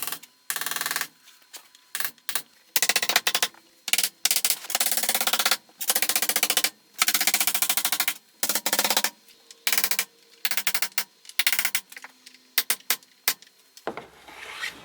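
A cordless impact driver driving screws in a series of short bursts of rapid hammering clicks, with brief pauses between them, fastening wooden trim. Near the end a rasp starts filing a wooden edge.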